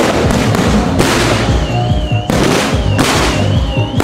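Aerial fireworks going off in a dense, unbroken barrage of bangs and crackle, with fresh volleys starting about one second in and twice more after. Music plays along underneath, including a warbling high tone.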